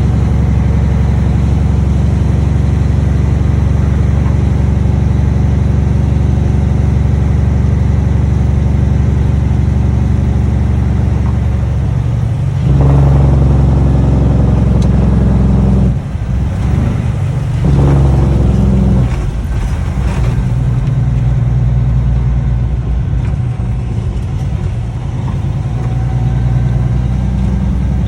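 Cummins ISX straight-six diesel through six-inch straight pipes, running loud and steady. Around the middle it gets louder for about three seconds, drops off sharply, comes up again briefly, then settles back to steady running.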